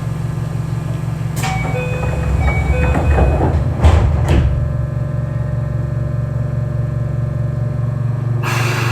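Keio 8000 series train standing at a station with a steady low electrical hum. Short chime-like tones play, then the sliding doors shut with two knocks about four seconds in. A hiss starts suddenly near the end.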